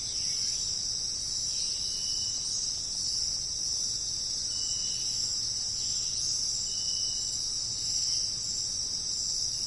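Insects chirring in a continuous high-pitched hiss. A short, thin, even note, likely a bird, sounds three times over it.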